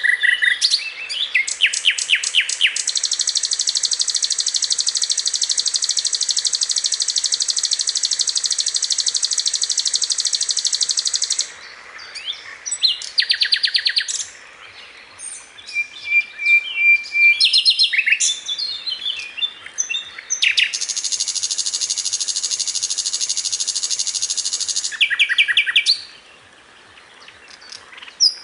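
Sikatan londo flycatcher singing: rapid series of high, sharp chips and two long, fast high-pitched trills, the first running about eight seconds, the second about four.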